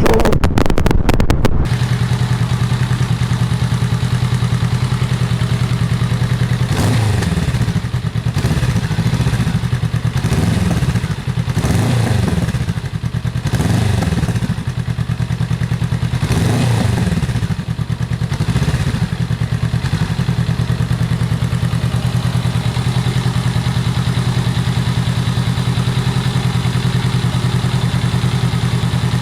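Honda Rebel 500's parallel-twin engine running steadily through a new aftermarket exhaust, with a few short revs of the throttle in the middle before settling back to an even note. A burst of crackling clicks is heard in the first second or so.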